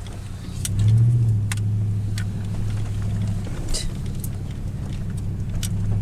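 Vehicle engine running at low speed on a rough dirt road, heard from inside the cab, with a short rise in engine note about a second in. Scattered sharp clicks and rattles sound over the steady drone.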